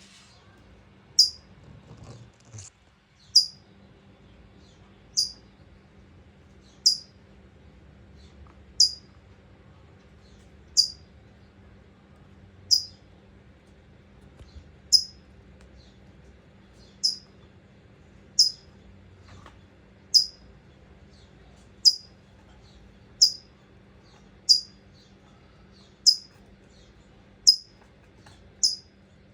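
A California towhee repeating a sharp, high chip call that falls in pitch, about once every one and a half to two seconds. It is the mother bird chirping worryingly near her nest of hatchlings.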